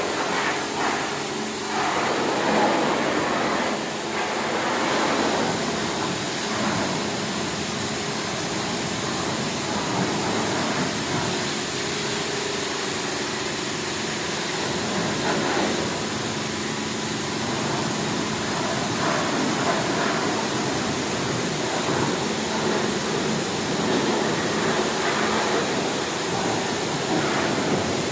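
Kärcher pressure washer running and spraying a high-pressure water jet: a continuous hiss of spray over a low steady hum from the pump.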